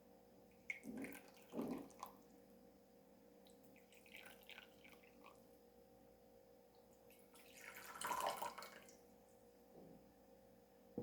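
Water poured between teaware in a tea set during tea brewing: two short pours about a second in, a few small drips and ticks, then a longer pour about eight seconds in, the loudest part.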